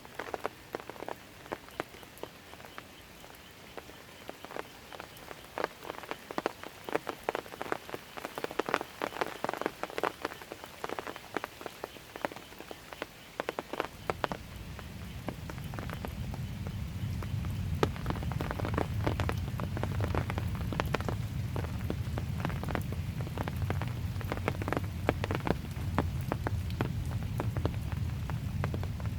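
Light rain falling, with many close drops making sharp ticks over a soft hiss. About halfway through, a steady low rumble comes in underneath and keeps going.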